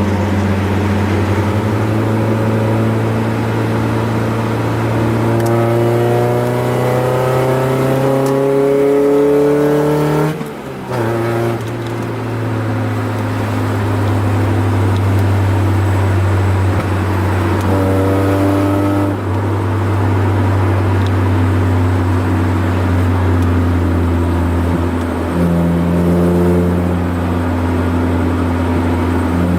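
Honda F22B1 2.2-litre SOHC VTEC four-cylinder engine driving the car. Its pitch climbs steadily for several seconds under acceleration, drops sharply at a gear change about ten seconds in, then settles into a steady drone, with short pitch rises later.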